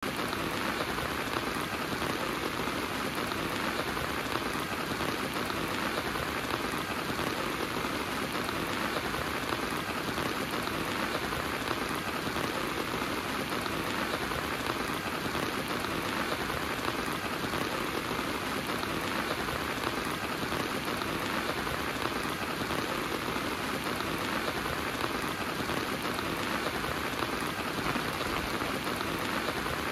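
Heavy rain falling steadily, a dense, even patter of drops on surfaces with no let-up.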